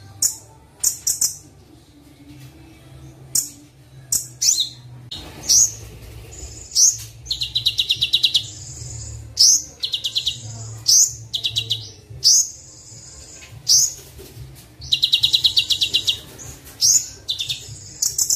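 Recorded songbird chirps and short rapid trills from a masteran for the kolibri wulung sunbird: sharp high single chirps alternating with bursts of about ten quick notes a second, over a faint low hum.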